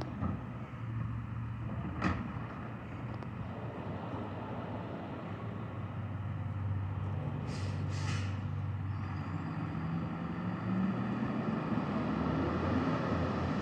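Rear-loader garbage truck's diesel engine running steadily, with a knock about two seconds in and two short air hisses from the truck's air system about halfway through; the engine gets louder near the end.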